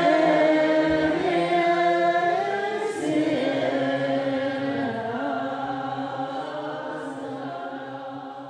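Several voices chanting together in long, held tones, fading out steadily toward the end.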